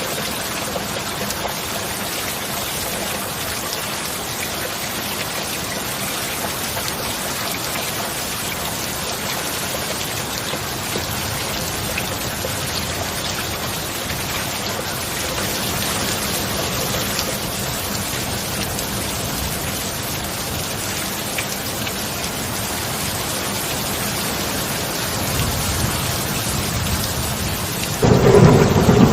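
Steady heavy rain falling, with thunder building low near the end and breaking into a loud rumble in the last second or so.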